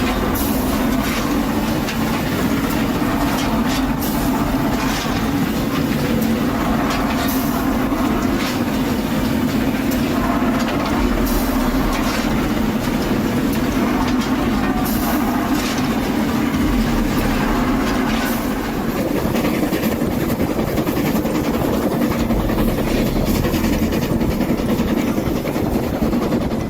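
A train running along the track: a steady running rumble with sharp clacks every second or so.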